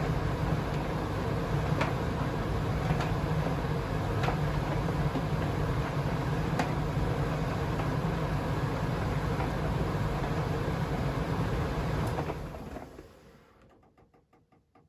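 Privileg Sensation 952 S top-loading washing machine running steadily with a low hum and a few faint clicks, then fading away to near silence about thirteen seconds in.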